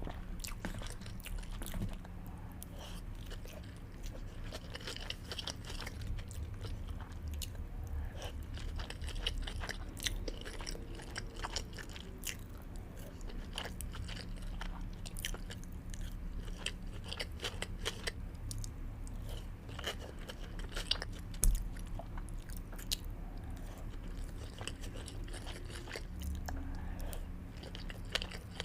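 Close-miked ASMR eating of salmon sushi and sushi rolls: steady chewing and biting with many small sharp mouth clicks over a faint steady low hum. One louder knock comes about two-thirds of the way through.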